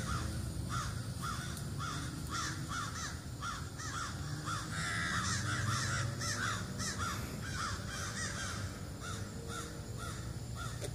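Birds calling over and over in a noisy chorus of short, repeated calls, about two a second: alarm calls raised at a black bear up in a nearby tree.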